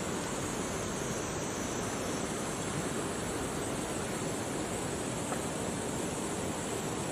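Steady, even rushing hiss with no separate events or pitch.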